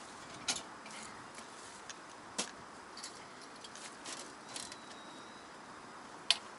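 Metal clicks and light knocks from the panels of a Sho's Bonfire Box Easy folding wood stove being fitted together. There are three sharp clicks, about half a second in, in the middle, and a louder one near the end, with softer ticks in between.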